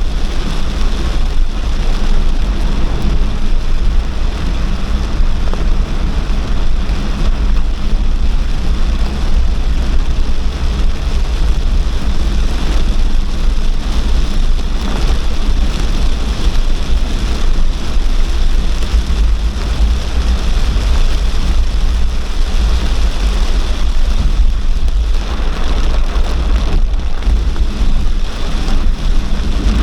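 Torrential rain pouring steadily, with a constant deep rumble underneath.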